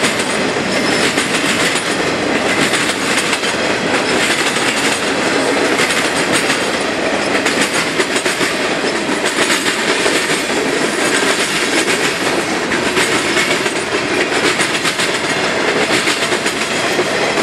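Freight train boxcars rolling past close by, a steady loud rumble with steel wheels clattering rapidly over the rail joints.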